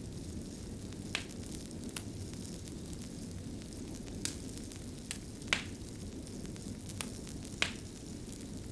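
Wood fire burning with a low steady rumble and sharp, irregular crackles and pops, about seven in all; the loudest two come about midway and near the end.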